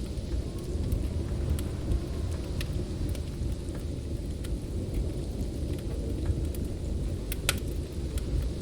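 Snowstorm wind rumbling low and steadily, with the sharp crackles and pops of a wood fire scattered through it, one louder pop near the end.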